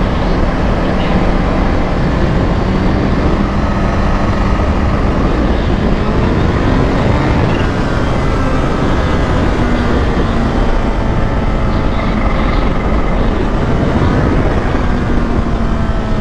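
Motorcycle engine running at road speed under heavy wind rush, its pitch climbing twice as the bike accelerates.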